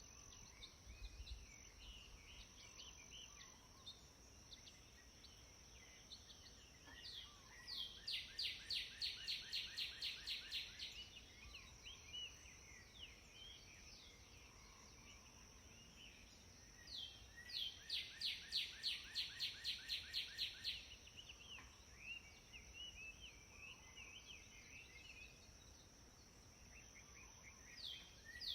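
Songbird singing a fast run of repeated, downward-sweeping notes lasting about three seconds, twice, about ten seconds apart, with softer chirps from other birds between. A steady high-pitched tone sounds faintly underneath throughout.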